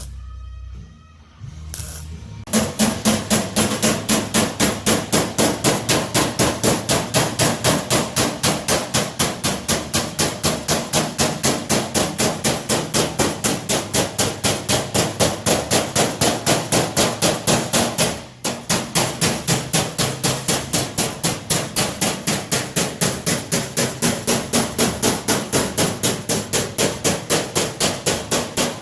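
Rapid, regular hammering on the sheet steel of a car door, about four blows a second, starting about two seconds in with one short pause past the middle.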